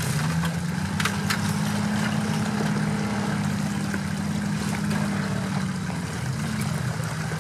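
Off-road 4x4's engine running at low revs, rising a little near the start and easing off near the end, with a few light knocks.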